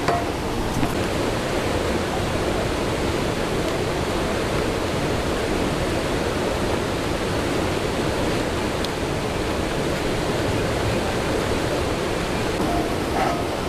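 Steady, even rushing of water, a dense hiss without any rhythm or distinct events.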